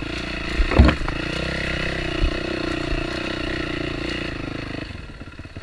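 Off-road motorcycle engine running steadily on a dirt trail, with a loud thump about a second in and a lighter knock a second or so later; near the end the engine sound drops away.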